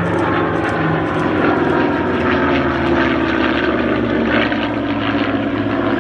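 Second World War piston-engined propeller aircraft flying past, a loud steady engine drone whose pitch drifts slowly down.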